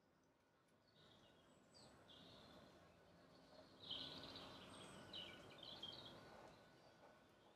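Faint outdoor ambience with small birds chirping, loudest about four seconds in.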